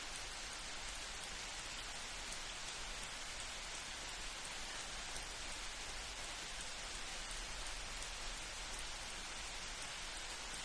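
Light rain falling steadily, with faint ticks of individual drops scattered through it; no thunder is heard.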